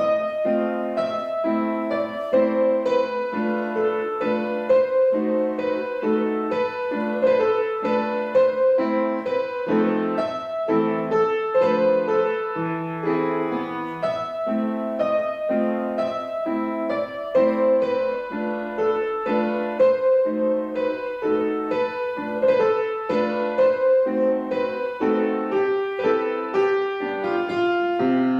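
Solo piano playing a lyrical classical piece: a singing melody over a steady pulse of repeated chords.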